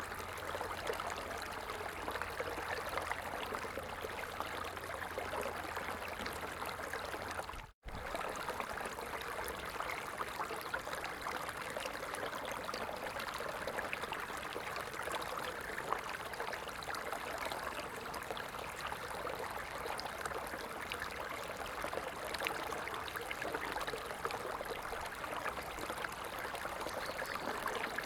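A stream of water flowing and trickling steadily. The sound drops out for an instant about eight seconds in, then carries on as before.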